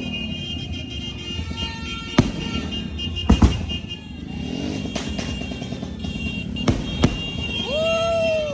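Scattered firework bangs: five sharp reports a few seconds apart, two of them in quick succession, over a steady background of engines and music. Near the end, a short pitched tone rises and then holds for under a second.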